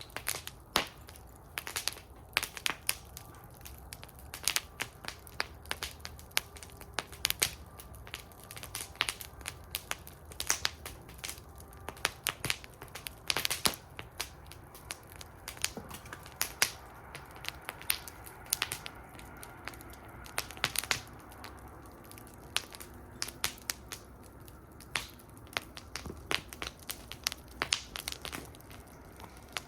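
Wood fire burning in a metal fire bowl, crackling with irregular sharp pops and snaps over a low steady rumble of the flames.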